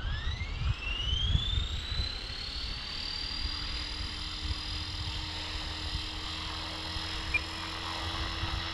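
Align T-Rex 470 RC helicopter's electric motor and rotor spooling up: a whine that rises steeply in pitch over about three seconds, then holds steady at head speed. Wind rumbles on the microphone underneath.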